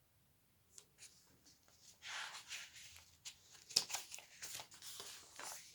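Faint rustling and scattered clicks of something being handled, starting about two seconds in.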